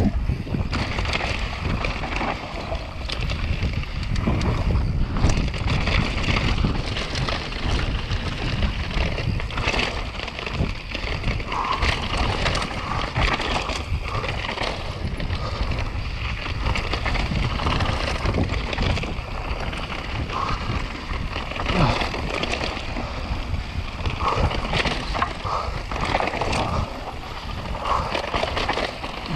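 Mountain bike descending fast over rough trail: steady wind buffeting on the camera microphone, with a constant run of knocks and rattles from the bike and tyres over the ground.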